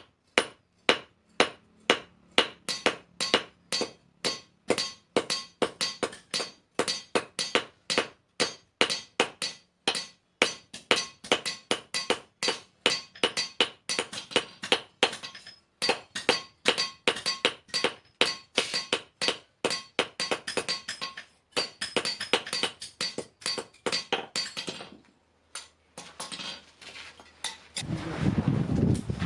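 Hammer blows on iron against an anvil, several a second in a steady rhythm, each with a ringing metallic clink, as the spade blade is forged. The hammering pauses briefly twice, and a rougher, fuller noise takes over near the end.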